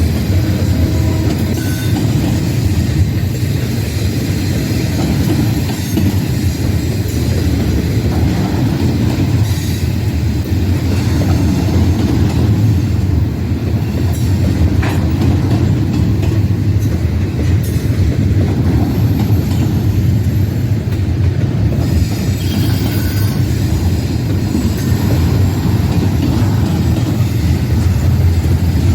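Freight train rolling past, a steady loud rumble of wheels on rail that runs on without a break.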